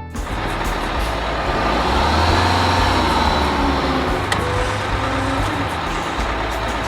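A heavy truck engine running steadily, with a sharp click about four seconds in.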